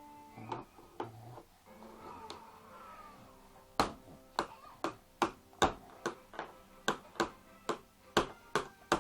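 A six-month-old baby banging on a table: after a few quiet seconds, a run of sharp knocks at about two a second begins about four seconds in and keeps going.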